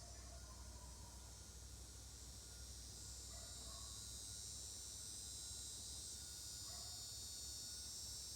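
Steady high chorus of insects, with a faint low hum beneath.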